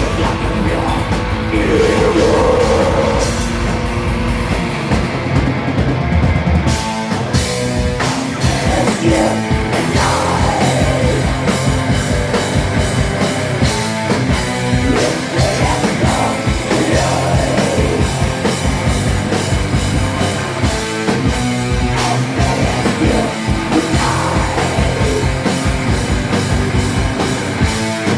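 Live rock band playing loud, with vocals. Sustained guitar and bass open, then the drum kit comes in with the full band about seven seconds in.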